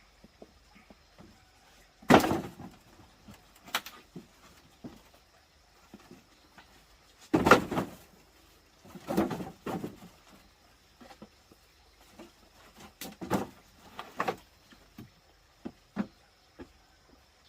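A handful of irregular knocks and thumps a second or more apart, the loudest about two seconds in and about halfway through, over a faint steady high-pitched tone.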